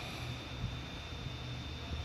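Steady low rumble and hiss of outdoor background noise, with a faint thin high tone held throughout.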